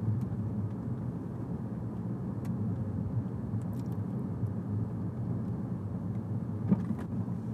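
Steady low rumble of a car driving slowly, heard from inside the cabin: engine and tyre noise. A single short knock sounds near the end.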